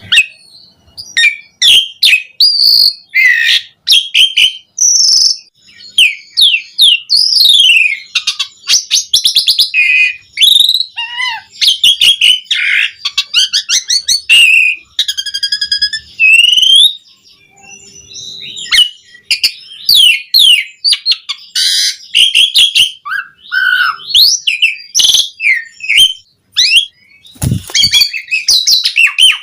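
Asian pied starling (jalak suren) singing hard: a fast, varied run of whistles, trills and chattering phrases full of imitated calls, with brief pauses about halfway through and again near the end. A short low thump comes near the end.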